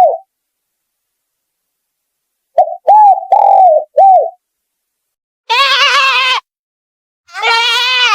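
A quick run of four short, arching animal calls, then two loud, wavering bleats of about a second each.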